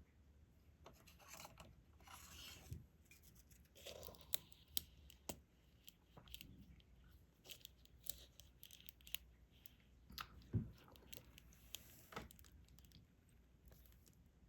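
Soft, scattered clicks, taps and light scraping of diamond painting: a drill pen setting small resin drills onto the canvas, with a few sharper ticks.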